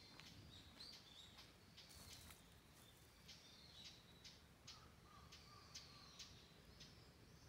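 Faint high bird chirps repeating irregularly over near silence.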